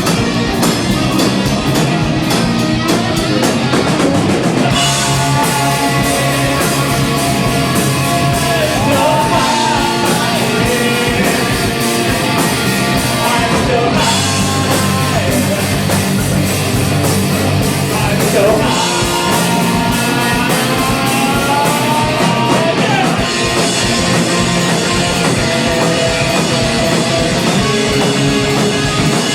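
Live rock band playing, with distorted electric guitar and drum kit under a sung vocal that enters about five seconds in and drops out a few seconds before the end.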